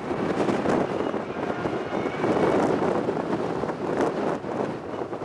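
Off-road rally car's engine running hard as it drives past on a dirt stage, with wind on the microphone, fading slightly near the end.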